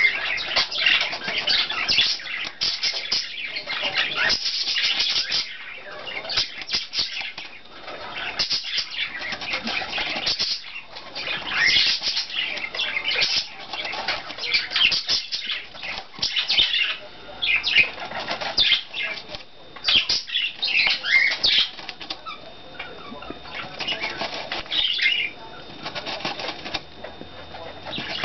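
A small pet bird rustling and fluttering its wings among loose styrofoam beads on a foam block: dense, irregular scratchy crackling with a few short squeaks.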